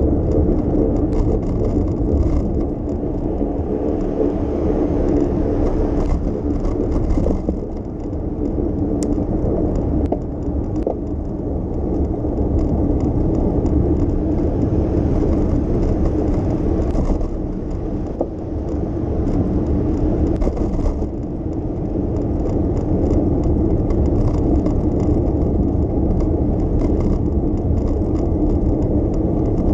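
Steady low rumble of a bicycle rolling along city streets, with a constant whir and light rattling from the bike.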